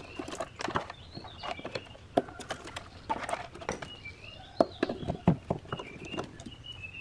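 Irregular sharp clicks and knocks of hand-work on parts, with a bird chirping repeatedly in the background.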